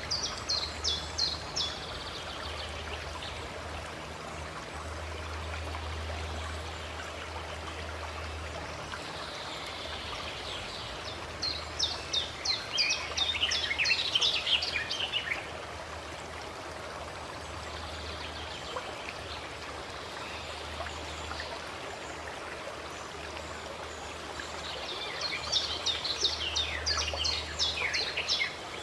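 Water flowing steadily, like a small stream or spring. A bird sings in three bursts of quick, high chirping notes: near the start, about halfway through, and near the end.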